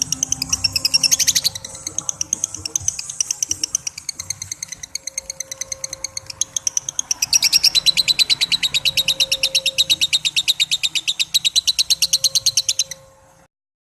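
Lovebird's 'ngekek' song: a long unbroken run of rapid, shrill chattering notes, several a second. It grows louder about halfway through and breaks off briefly near the end.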